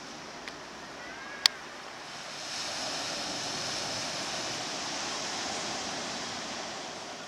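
Sea waves washing on the shore, one surge swelling about two and a half seconds in and easing off near the end. A single sharp click sounds about a second and a half in.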